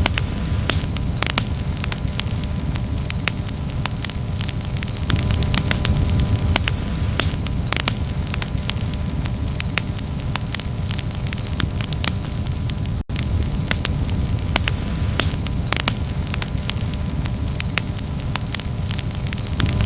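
Campfire crackling: irregular sharp pops and snaps from the burning wood over a steady low rumble. The sound cuts out for an instant about thirteen seconds in.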